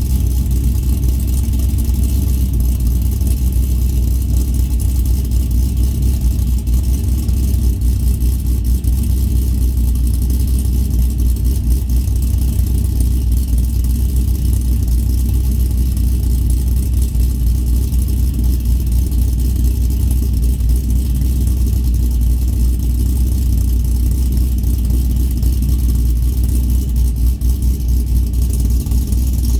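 Camaro SS V8 with an aftermarket camshaft and mufflers, idling steadily as it warms up after a cold start, with a deep, low exhaust note.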